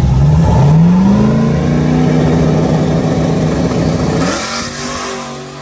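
Turbocharged LSX V8 drag car revving up and holding steady revs on the start line, building boost. About four seconds in the note breaks with a rush of hiss as it launches, and the engine sound fades as the car pulls away.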